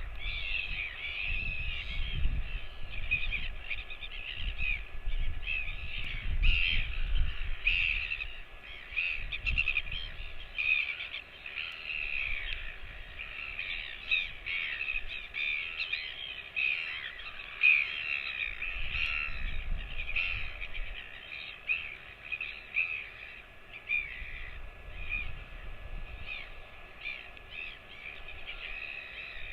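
Birds calling: many short calls overlapping in a continuous chatter, with low rumbling thumps now and then.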